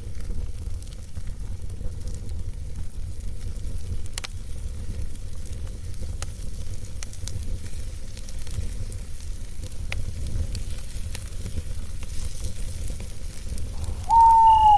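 Campfire burning: a steady low rumble with sparse, faint crackles. Near the end a single loud whistled call, falling slightly in pitch, lasts under a second.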